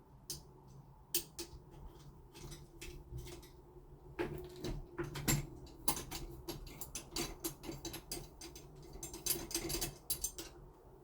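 Fixing screws being fitted and turned with a screwdriver into the smart lock's fixing plate: irregular metallic clicks, small knocks and short rattling runs, busier from about four seconds in.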